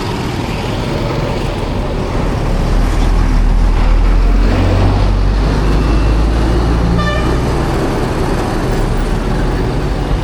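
Busy street traffic: a motor vehicle's engine runs past close by, louder from about two seconds in. A short horn beep sounds about seven seconds in.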